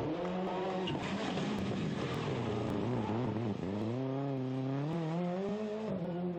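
Rally car engine on full song. Its revs fall and waver about three seconds in, then climb steadily as the car accelerates, with a brief dip near the end.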